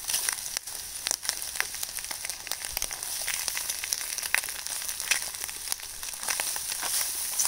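Vegetables sizzling in an aluminium tray over a charcoal shichirin, a steady hiss with scattered sharp crackles and pops. They are cooking without oil and starting to scorch.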